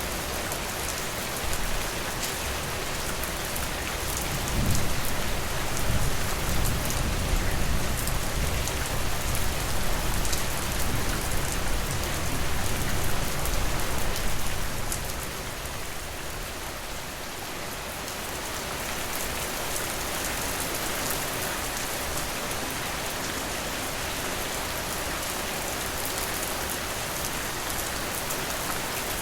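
Steady rainfall, an even hiss of drops. About five seconds in, a low rumble swells up and dies away some ten seconds later, leaving the rain alone.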